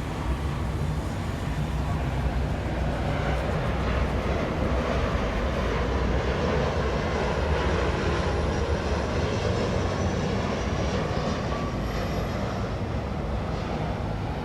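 Downtown city traffic noise, a steady low rumble that swells to a peak midway and eases off again as something loud passes.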